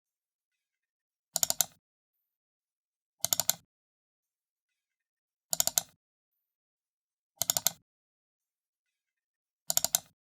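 Computer mouse button double-clicked five times, about two seconds apart, each a quick cluster of sharp clicks.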